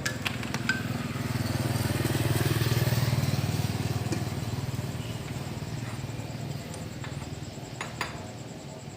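A motorcycle engine running, growing louder to a peak about two to three seconds in and then slowly fading, like a bike passing by. A few sharp metallic clicks at the start and a knock near the end.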